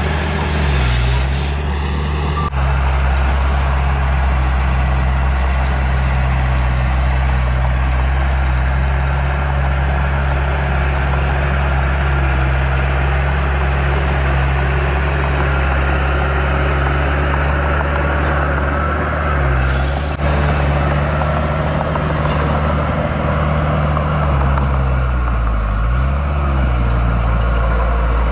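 Heavy diesel engine of earthmoving machinery running steadily, its pitch dipping briefly about a second in and twice more in the second half as the load changes.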